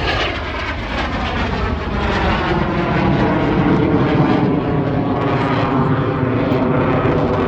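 BAC Strikemaster's Rolls-Royce Viper turbojet passing in a display flypast: a loud jet roar and whine whose pitch slides down over the first couple of seconds as it goes by, then stays loud.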